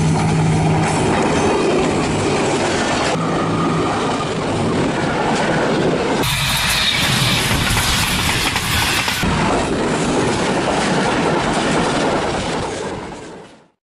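Pakistan Railways diesel-hauled passenger train passing close by, its coaches' wheels clattering over the rail joints, in a series of short clips that change abruptly about every three seconds. A steady low hum sits under the first second or so, and the sound fades out near the end.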